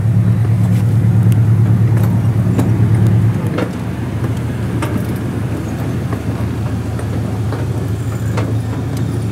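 A safari ride train running with a steady low engine drone, which eases down a little about three seconds in, and faint scattered clicks and rattles.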